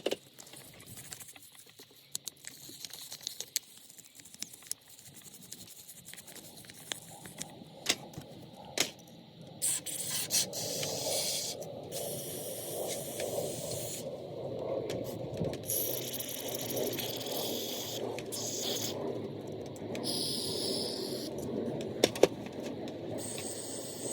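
Small clicks and clinks of carburetor parts being handled, then from about halfway in repeated hissing spray bursts, each lasting a second or two, while a Keihin carburetor is being cleaned.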